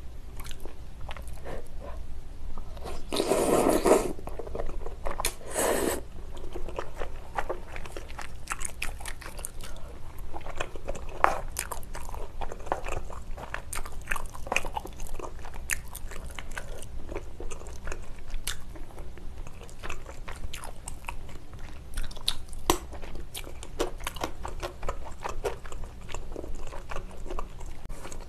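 Close-miked wet chewing and mouth sounds of someone eating soupy spicy tteokbokki: chewy rice cakes and fish cake in sauce. Many small smacks and clicks, with two longer, louder stretches about three and five seconds in.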